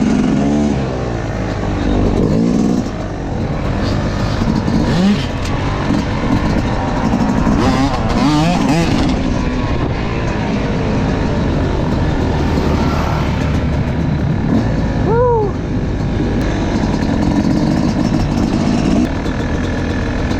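Motocross dirt bike engine running under load, revving up and down with its pitch rising and falling several times.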